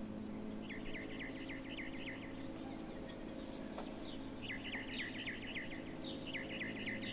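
Birds chirping in quick repeated trills, in bursts of about a second, over a steady low hum.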